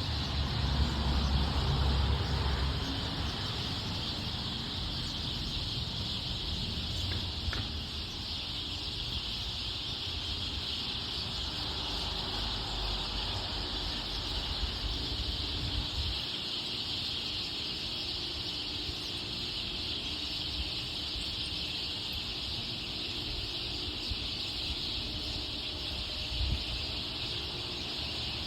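Birds calling over a steady high-pitched drone, with a low rumble in the first two seconds.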